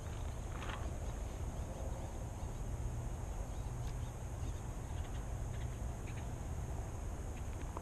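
Outdoor ambience: a steady low rumble like wind on the microphone, under a steady high hiss, with a few faint short chirps scattered through.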